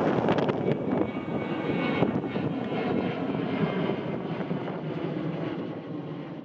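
Airplane engine noise, slowly fading, with wind buffeting the microphone.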